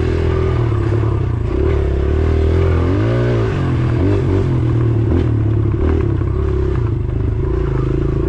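Small single-cylinder four-stroke dirt bike engine running under riding load. About three seconds in it revs quickly up and back down.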